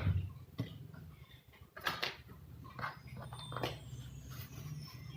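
A handful of separate clicks and knocks from printer parts being handled during repair, over a steady low hum.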